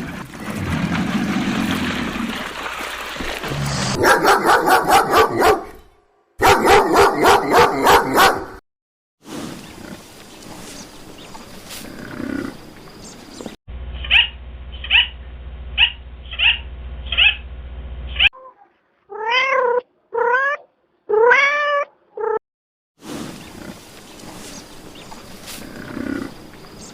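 Animal calls from several short clips cut one after another: low growling sounds, a stretch of rapid pulsed calls, a run of about six short repeated calls, then several drawn-out cries that rise and fall in pitch.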